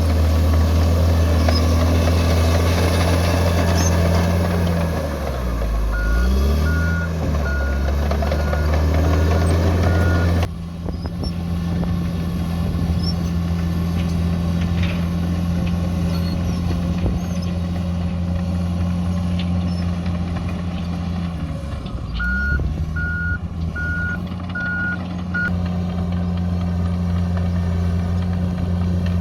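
Bulldozer's diesel engine running steadily under work, its revs dipping briefly twice as it changes direction. Each time it is followed by a run of reversing-alarm beeps.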